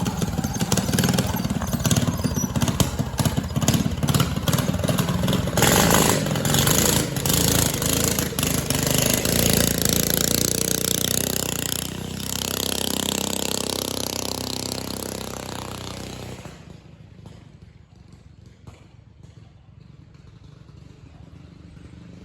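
Mini bike's Predator small single-cylinder four-stroke engine running hard on a ride, its pitch and loudness wavering with the throttle. About three quarters of the way through it drops off sharply to a faint low running sound.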